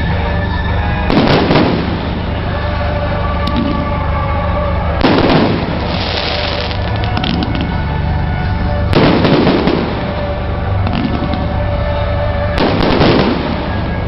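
Fireworks bursting four times, about every four seconds, each burst trailing into a crackle. Steady music plays underneath.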